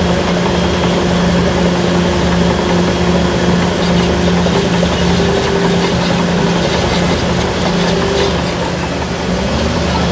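Heavy diesel earthmoving machinery running steadily, with a constant low engine hum under a loud, even mechanical noise.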